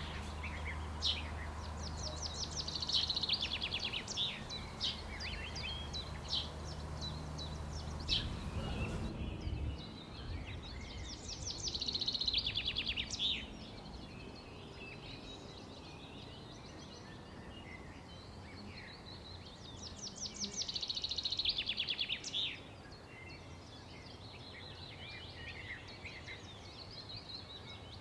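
Wild songbirds singing in a chorus of chirps and fast trills, with louder trilling bouts near the start, the middle and about two-thirds through. A low steady hum lies under the first third and stops about nine seconds in.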